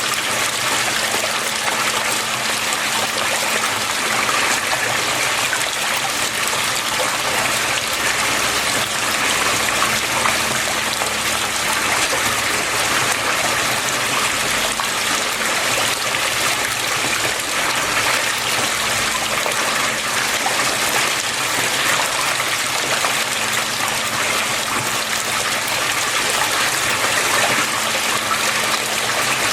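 Water flowing and splashing steadily, with a faint steady hum underneath.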